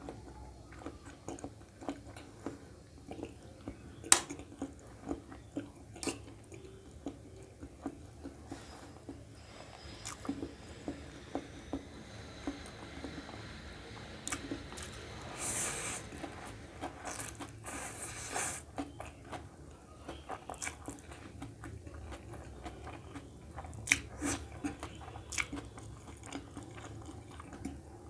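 Close-miked chewing of chow mein noodles, with many wet mouth clicks and smacks, and two longer slurps of noodles about midway.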